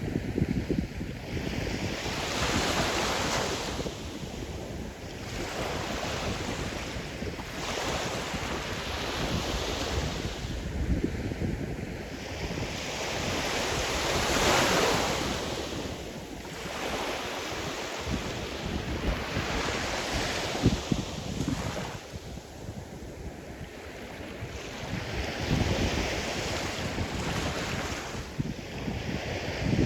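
Sea surf: waves breaking and washing up the shore, the noise swelling and easing about every five or six seconds, with a low rumble of wind on the microphone.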